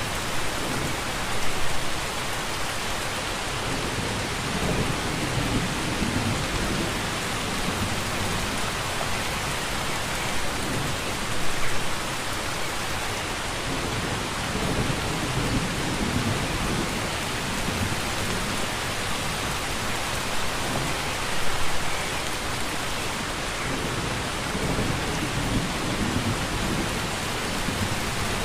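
Steady rain falling, with low thunder rumbling in slow swells a few times. Short louder surges come about every ten seconds.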